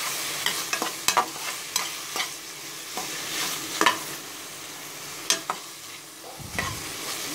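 Sliced onions and tomatoes sizzling in hot oil in an aluminium pressure cooker, stirred with a metal spatula that scrapes and clinks irregularly against the pan. The tomatoes are being sautéed until soft.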